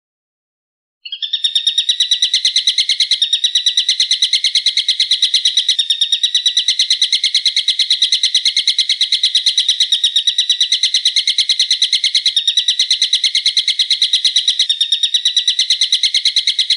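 A bird's call: a loud, fast string of sharp repeated notes that starts abruptly about a second in and runs on without a break, as used in masteran recordings for training songbirds.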